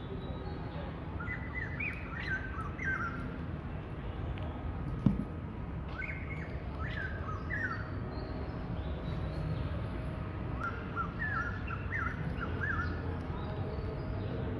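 Songbird chirping in three short bursts of quick phrases, over a steady low background rumble. A single sharp click sounds about five seconds in.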